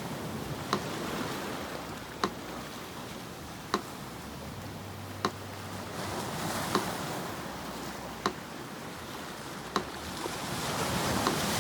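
Sea surf washing and swelling, with a metronome ticking slowly and evenly over it, one tick about every second and a half.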